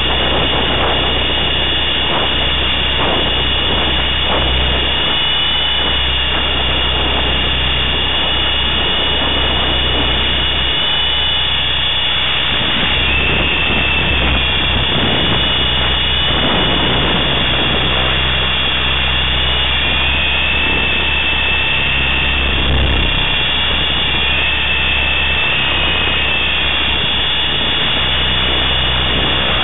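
Align T-Rex 500 electric RC helicopter in flight: the steady high whine of its motor and gears over the rush of the rotors, the whine's pitch shifting slightly up and down as the throttle and load change.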